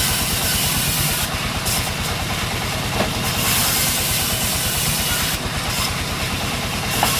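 Engine running steadily at a low, even pulse, with a hiss that comes and goes and a couple of brief clicks.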